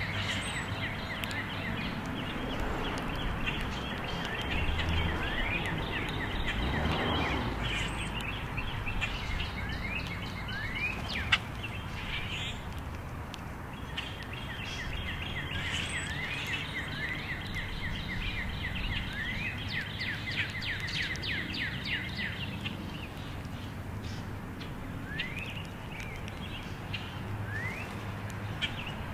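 Birds chirping in long runs of rapid short notes over a steady outdoor rumble, with a sharp click about eleven seconds in.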